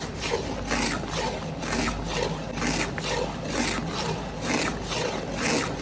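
Rhythmic scraping or rubbing strokes, about two or three a second, over a steady low machine hum.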